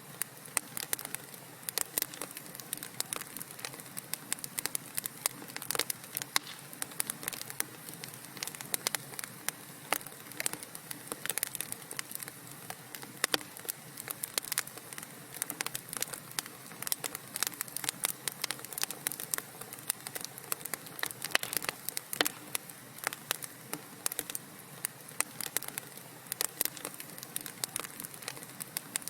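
Wood fire burning in a fireplace, crackling and popping with many irregular sharp snaps over a soft steady hiss.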